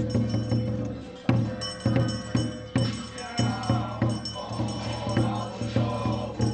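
Temple ritual music: a drum struck in an uneven beat, with jingling high percussion, and a chanting voice coming in about three seconds in.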